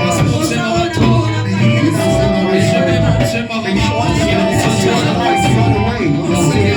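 Live church worship band playing an upbeat song with drums, bass and keyboard, with a steady beat and some singing.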